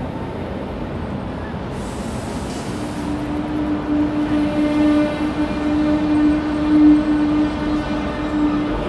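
Electric train running through a station, with a short burst of hiss about two seconds in. Then, from about three seconds on, a steady pitched hum swells louder over the rumble.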